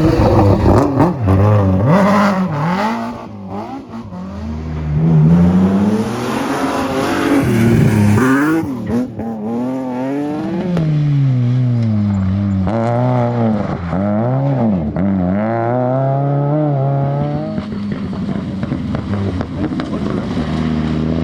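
Rally car engine at high revs, its pitch climbing and dropping again and again through gear changes and lifts, with sharp cracks in the first few seconds. Near the end it settles to a steadier, quieter engine note.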